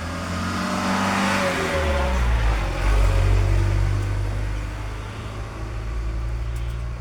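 A motor vehicle passing close by, its engine note falling in pitch over the first two seconds, then a low steady rumble.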